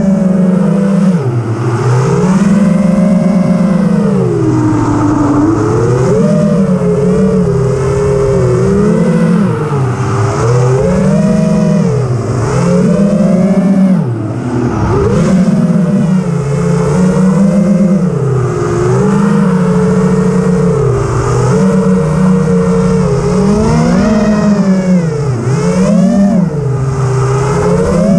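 Multirotor drone's electric motors and propellers whining, the pitch rising and falling constantly with throttle, with a brief dip about halfway through.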